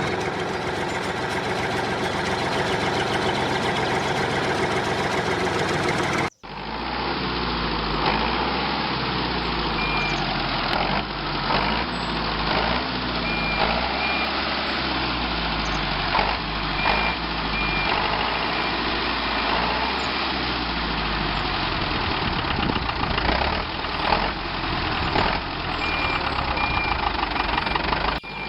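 Small engine of a home-built mini tractor running steadily, its pitch wavering up and down. Short high beeps recur several times after the sound cuts to a new take about six seconds in.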